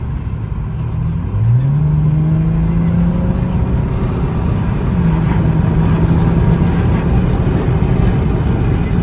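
Mercedes OM642 V6 turbodiesel in an E320 CDI, stage 3 tuned with a hybrid turbo, blocked EGR and a straight exhaust, accelerating under load, heard from inside the cabin. The engine note climbs over about a second, then holds steady, with a short break about four seconds in before it steadies again.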